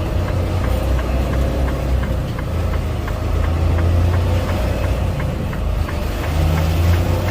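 Diesel engine of a Freightliner Cascadia semi truck running at low revs, heard from inside the cab, with a faint regular ticking about two or three times a second.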